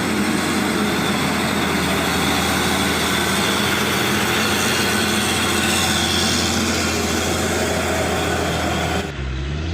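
Heavily loaded Hino 500 truck's diesel engine pulling hard up a rough incline, a loud steady rumble mixed with dense road and tyre noise. About nine seconds in the sound changes abruptly to a quieter, lower engine note.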